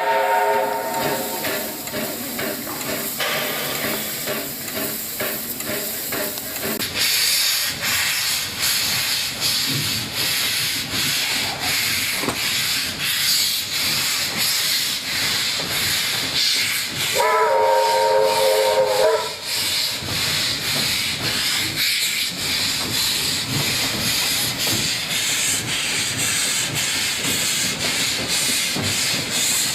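Steam locomotive working, its exhaust beating in a steady rhythm with a hiss of steam, and a whistle blast of several notes lasting about two seconds around the middle.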